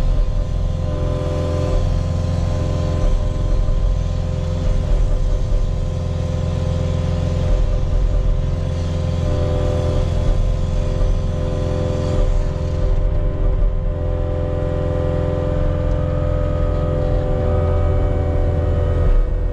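Diesel engine of a piece of earthmoving equipment running steadily, holding an even pitch with small shifts as it works.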